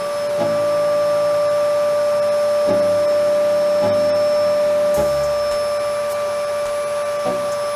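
A 3D printer printing. A steady fan whine runs under lower stepper-motor tones that shift pitch every second or two as the print head changes moves.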